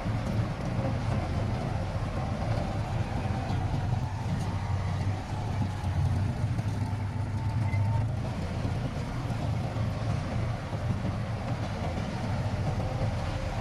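Heavy diesel engine of earthmoving machinery running steadily with a low rumble, with a faint steady whine over it.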